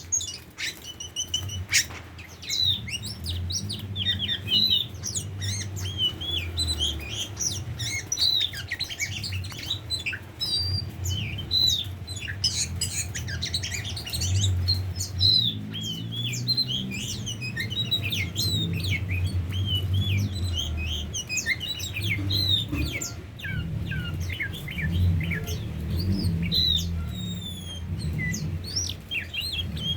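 Oriental magpie-robin (kacer) singing: a rapid, continuous run of short, varied chirps and whistles, over a low hum.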